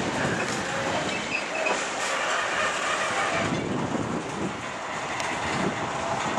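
Freight wagons loaded with steel rails rolling past close by: a steady noise of wheels running on the track with rattling from the wagons and their load.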